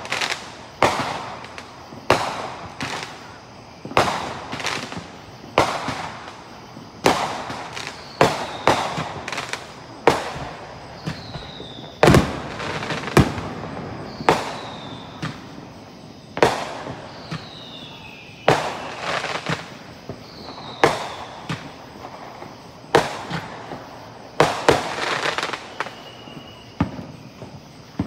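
Fireworks going off in a long string of sharp bangs, about one a second and sometimes two in quick succession, each followed by an echoing tail. Short falling whistles sound between some of the bangs.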